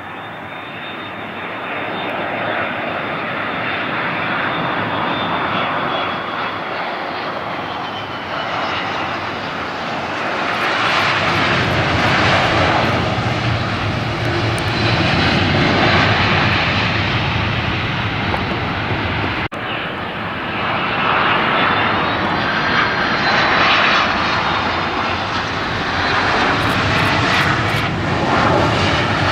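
Jet airliner engines passing close by: a loud, steady rushing noise with a high whine that slides in pitch as the aircraft goes past. About two-thirds of the way through, the sound breaks off abruptly and then swells up again with another passing jet.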